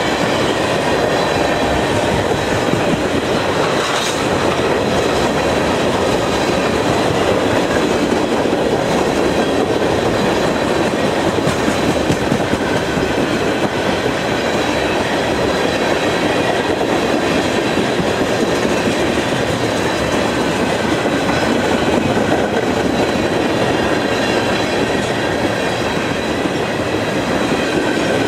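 Railroad cars rolling past close by: a loud, steady rumble of steel wheels on the rails, with a faint high-pitched ringing on top.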